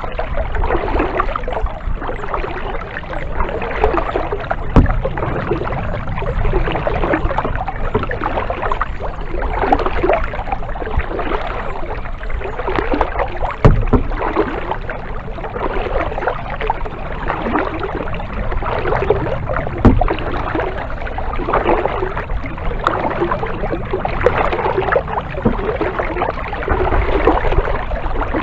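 Kayak paddle strokes splashing and dripping in the water, with uneven surges. Three sharp knocks stand out, about a third of the way in, near the middle and about two-thirds of the way in.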